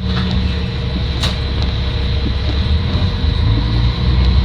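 Shigaraki Kohgen Railway SKR310-series diesel railcar under way, heard from inside: a steady low engine drone with a faint steady whine above it, and one sharp click about a second in.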